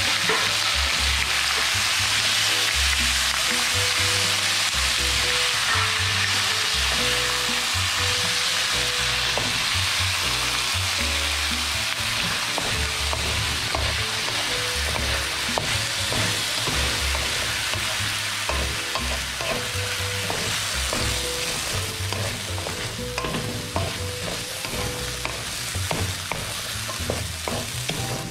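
Diced colocasia (taro) sizzling in hot oil in a metal kadai while a wooden spatula stirs it, scraping and tapping the pan. The sizzle is strongest at first and eases a little, and the stirring strokes come more often in the second half.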